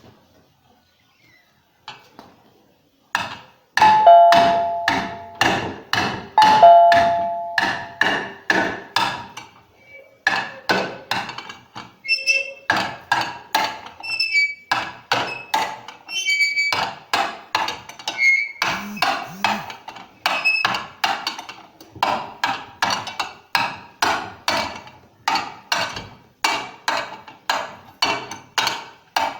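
A stone used as a hammer, pounding metal parts of a washing machine's drum assembly to knock them loose. The blows start about three seconds in and repeat about twice a second, and the first few ring with a metallic tone.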